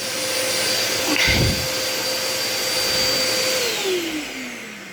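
Hoover vacuum cleaner running with a steady motor whine, with a low thump a little over a second in. Near the end the whine slides down in pitch and fades as the motor winds down.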